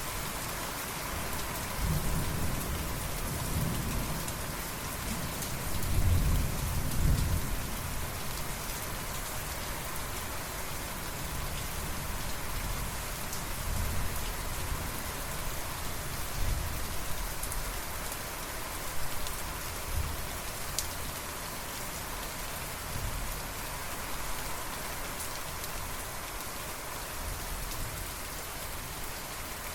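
Steady heavy rain falling, with rolls of thunder rumbling low underneath, the loudest swell coming about six to seven seconds in and weaker rumbles later on.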